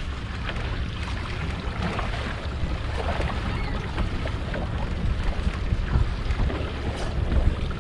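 Wind buffeting the microphone out on the water in an open fishing boat: a steady low rumble under an even hiss, with a few faint ticks.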